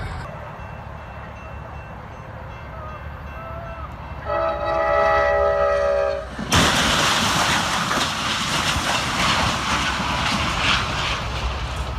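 Low rumble, then a multi-tone horn blares a steady chord for about two seconds. Just after, a loud rushing noise sets in and keeps on.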